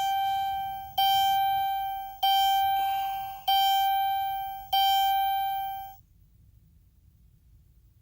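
Electronic warning chime from a 2011 Dodge Grand Caravan's instrument cluster, dinging five times about once every 1.2 seconds, each ding fading out, then stopping about six seconds in.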